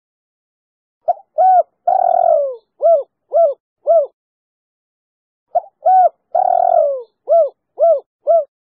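Female spotted dove cooing, two matching phrases. Each phrase is two short coos, one long coo falling in pitch, then three short evenly spaced coos.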